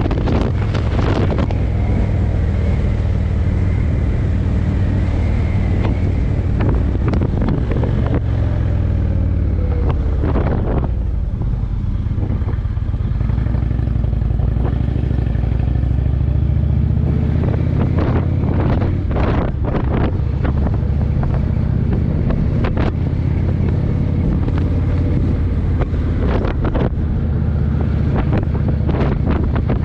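Indian V-twin motorcycle engine running on the road, with wind buffeting the microphone. The engine note falls away around eight to eleven seconds in and then climbs again as the bike slows and pulls away.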